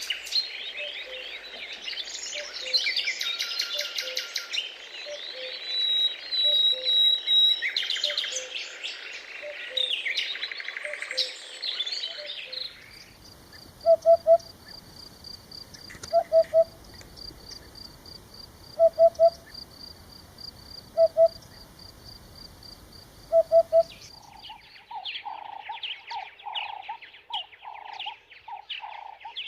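Several birds singing and chirping together. About halfway through the sound changes to a steady rapid insect trill, with a low double hoot repeated every two and a half seconds or so. Near the end another bird begins a quick run of repeated calls.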